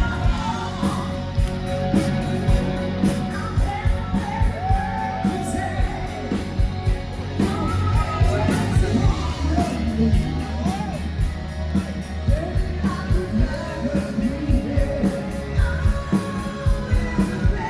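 Live band music with a steady drum beat and a singer, with crowd voices shouting along.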